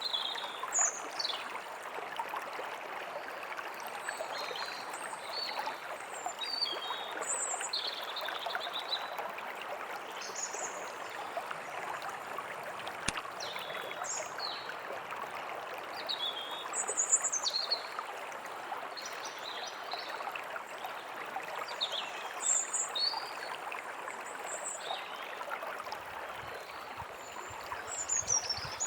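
A stream running steadily, with birds chirping and calling in short, high notes throughout.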